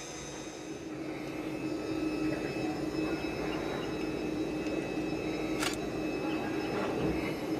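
CSX freight train hopper cars rolling slowly across a road grade crossing, a steady rumble with one sharp metallic clank a little over halfway through.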